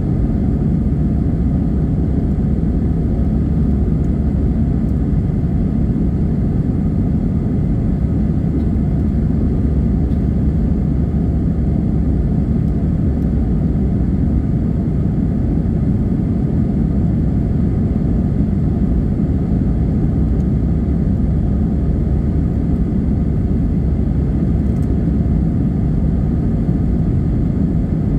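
Airbus A320 jet engines and airflow during its takeoff climb: an even, unchanging low rumble.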